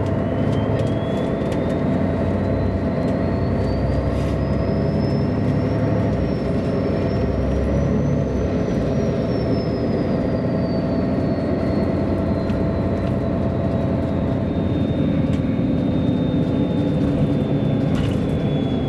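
Onboard sound of a 1999 MAN A23 NG313 articulated city bus driving. The diesel engine runs steadily, with a thin high whine that rises in pitch over the first several seconds, then falls and levels off.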